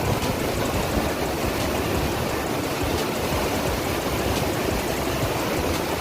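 Water rushing out through a dam's open gates, a steady, even rush.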